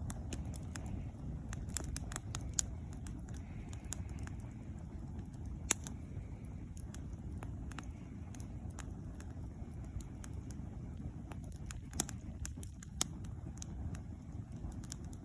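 Campfire burning, the wood crackling with irregular sharp pops, a few much louder ones (about 2.5 s, 5.5 s, 12 s and 13 s in), over a steady low rumble.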